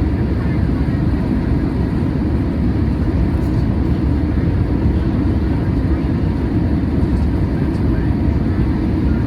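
Steady low noise inside the passenger cabin of a Boeing 737-800 airliner: engine and airflow sound heard from a seat, even and unchanging.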